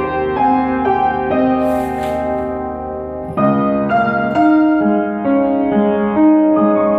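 Solo piano playing a slow, gentle melody over sustained chords, with a new phrase struck more firmly about halfway through.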